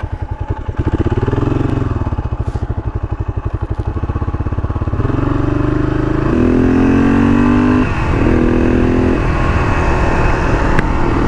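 Honda XL500's single-cylinder four-stroke engine pulling away: it revs up and back down about a second in, then accelerates with the pitch climbing, dropping briefly for a gear change about two-thirds through and climbing again.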